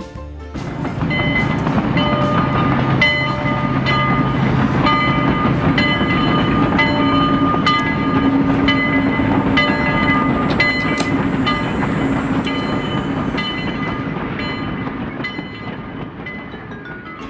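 A train running on its track: a steady rumble and hum with clear ringing tones struck over and over above it, fading away over the last few seconds.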